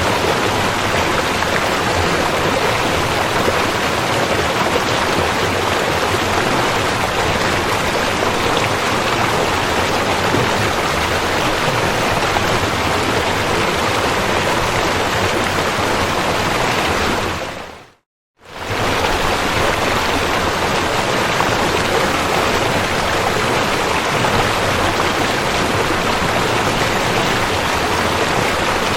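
River water flowing in a steady, dense hiss. About two-thirds of the way through it fades out to silence for a moment, then fades back in.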